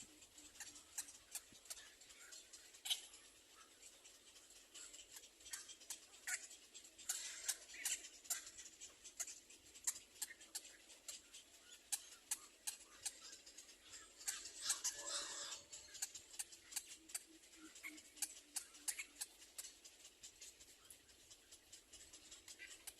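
Birds in a nest making faint, scattered clicks and scratches, with brief squeaky calls twice, about seven seconds in and again about fifteen seconds in.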